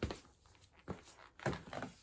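A few light knocks as a ceiling fan and a 10-pound sledgehammer are handled; the loudest comes about one and a half seconds in.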